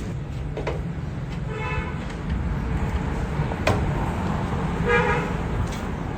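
Vehicle horn sounding two short toots a few seconds apart over a steady low engine rumble, with a couple of sharp clicks in between.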